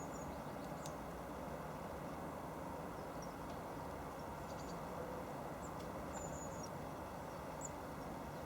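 Small garden birds giving short, faint, high chirps now and then, over a steady low background rumble.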